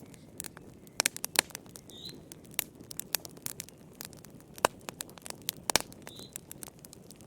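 Wood fire crackling in a fireplace: irregular sharp pops and snaps, a few loud ones about a second in and again near the middle, over a soft steady rush of the flames. Twice there is a faint brief high squeak.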